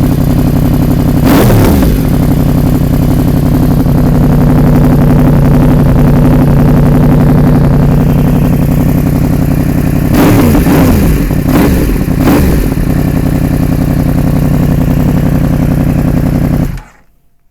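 Motorcycle engine with a baffle-less aftermarket semi-full exhaust, running very loud at idle and blipped up and back down: once about a second in, then three quick revs about ten to twelve seconds in. The sound cuts off sharply near the end.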